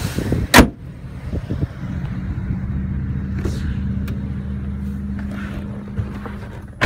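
Chevrolet truck engine idling with a steady low hum. There is a sharp knock about half a second in and another loud knock right at the end.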